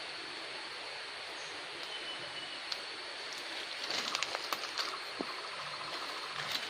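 Steady forest background hiss of running water and insects. From about four seconds in comes a quick run of sharp clicks with rustling.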